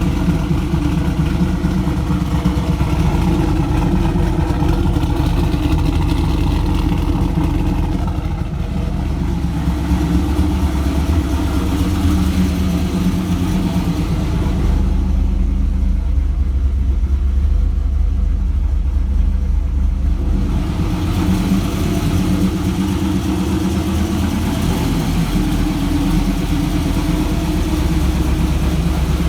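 Camaro SS's cammed LS1 V8 running at idle through long-tube headers and a nearly straight-piped 3-inch exhaust, shortly after a cold start. The idle holds steady, and for several seconds past the middle it sounds duller as its higher part drops away.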